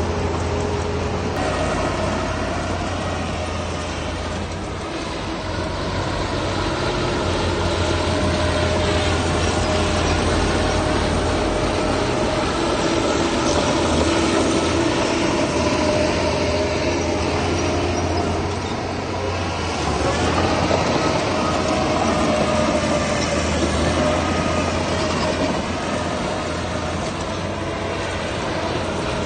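Heavy diesel earthmoving machinery working steadily: a low engine drone with a held metallic whine over it, swelling and easing a little throughout.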